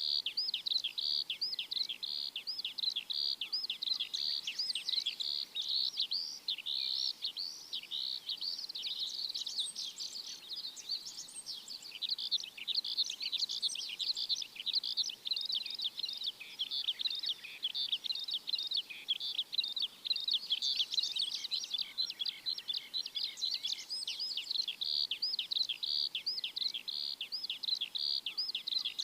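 Many small birds chirping together in a dense, continuous chorus of quick, high chirps.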